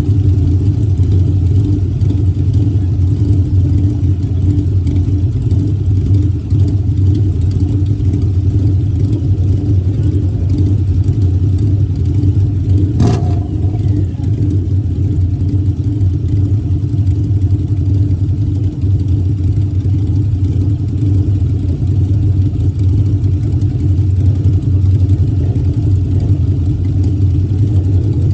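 Harley-Davidson motorcycle engine running steadily at an even speed, loud and unchanging, with one sharp click about thirteen seconds in.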